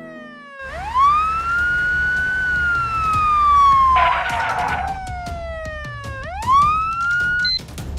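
Emergency vehicle siren wailing: the pitch sweeps up quickly, then falls slowly over several seconds, then sweeps up again and cuts off near the end, over a low rumble. A short noisy burst sounds about four seconds in.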